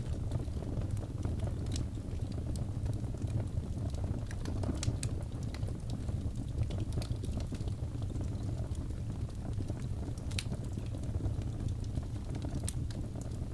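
Crackling fire: a steady low rumble with scattered sharp pops and snaps.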